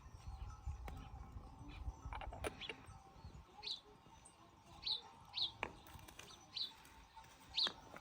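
A bird calling with short, high, down-slurred chirps repeated about once a second through the second half, over low thudding and rustling in the first couple of seconds.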